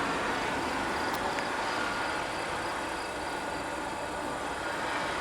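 Steady outdoor background noise with no thunder, and a brief faint click about a second in.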